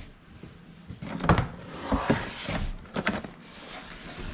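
A cardboard box being handled and turned: a few hollow knocks and thumps, the loudest about a second in, with cardboard scraping and rustling between them.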